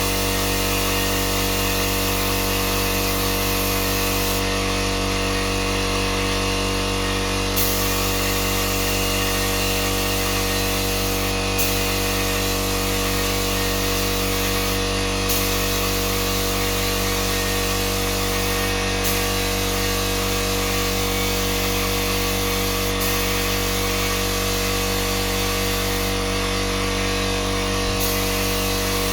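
An electric power tool's motor running continuously with a steady hum, its high hiss shifting abruptly every few seconds.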